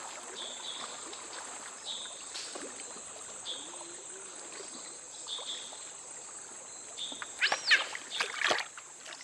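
Tropical rainforest ambience by a river: a steady high insect drone with a short chirp repeated about once a second. Near the end come a few loud, sharp calls.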